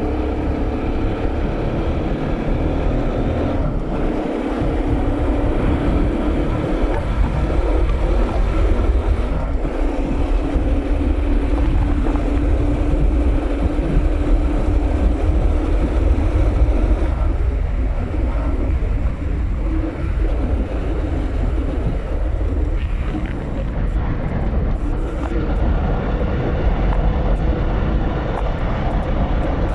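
Bajaj Pulsar NS200 motorcycle's single-cylinder engine running steadily while riding, with wind buffeting the microphone.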